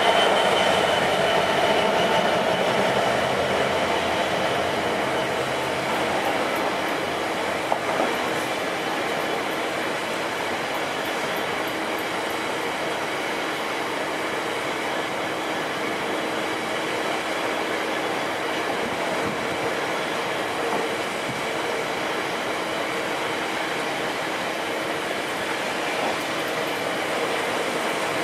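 A GBRf Class 66 diesel locomotive's EMD two-stroke V12 engine passing close by at the start and fading within a few seconds, then a long rake of coal hopper wagons rolling past with a steady rumble of wheels on rail, a steady thin wheel squeal underneath and a single sharp clank about eight seconds in.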